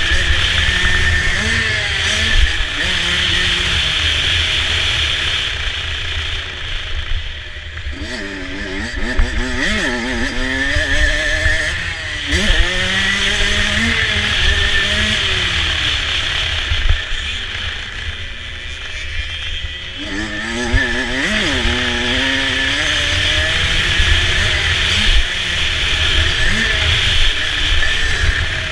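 Motocross dirt bike engine running hard, its pitch climbing and dropping again and again as the throttle is opened and closed through the gears.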